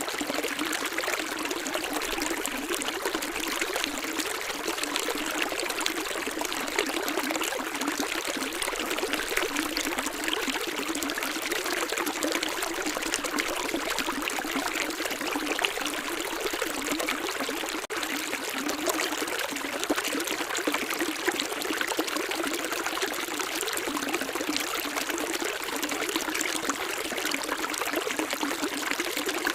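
Running water flowing steadily: an even, continuous splashing rush with no deep rumble.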